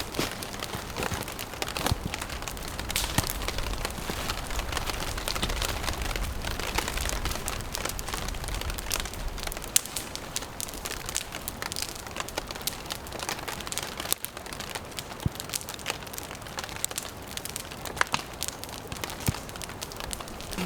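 Steady patter of rain mixed with the sharp crackles and pops of a wood campfire, with a low rumble through the first half.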